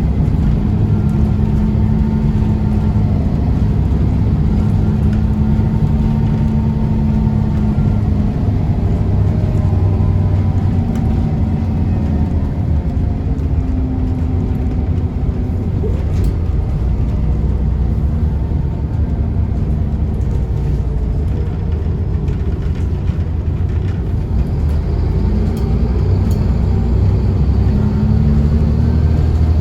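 Scania DSC9 nine-litre straight-six diesel of a Scania L94UB bus running under way, a steady heavy rumble whose engine note rises and falls as the bus drives and the ZF five-speed automatic changes gear.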